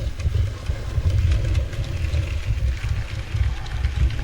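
N gauge model train running on the layout, a low uneven rumble with faint clicking.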